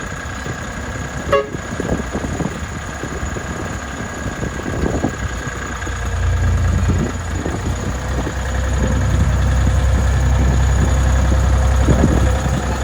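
Miniature railway locomotive running with a steady low rumble that grows louder about halfway through. A brief toot sounds about a second and a half in.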